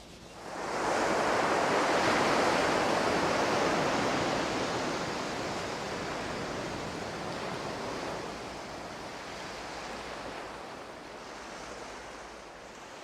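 Ocean surf washing onto the beach, a steady rush that swells in about half a second in and slowly fades away.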